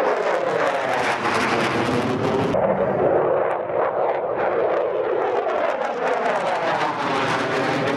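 Jet aircraft engine noise as a jet passes by, with whooshing tones that sweep down and up in pitch as it goes over. About two and a half seconds in, the sound changes abruptly to another stretch of jet noise.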